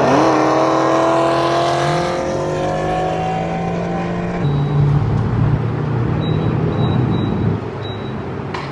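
Car engine running and accelerating, its pitch climbing slowly over the first few seconds with a couple of jumps, then running more evenly. A faint high intermittent beeping sits behind it near the end.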